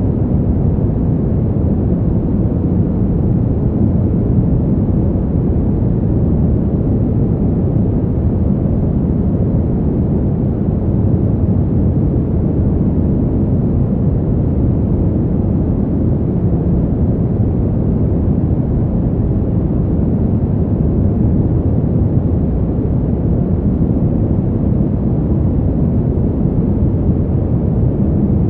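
Steady, low-pitched wind noise, even throughout with no gusts or breaks.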